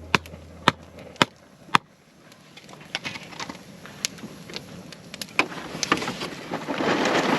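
Firewood cracking: sharp evenly spaced clicks for the first couple of seconds, then irregular wooden cracks and crackling that grow louder toward the end.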